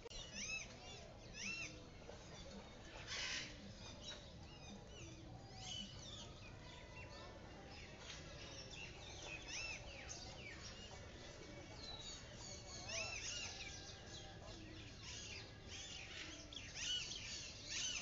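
Small birds chirping on and off: clusters of short, high, arched chirps.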